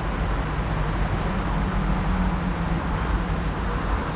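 Steady background rumble with an even hiss and a low hum, unbroken and without distinct events.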